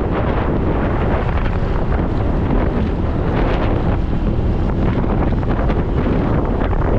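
Wind rushing over the microphone of a moving motorcycle, a loud, steady low rumble with no break.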